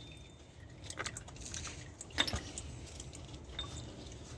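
Old engine oil draining from a Porsche 986 Boxster's sump into a catch pan, with a few light clicks and taps of small metal parts being handled, the loudest about two seconds in.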